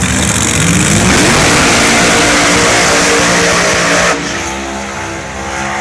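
Drag race car doing a burnout: the engine revs up, then loud tire-spin noise holds for about three seconds and cuts off suddenly about four seconds in, leaving the engine running at a steady pitch. The tires are being spun on the wetted track to heat them for grip.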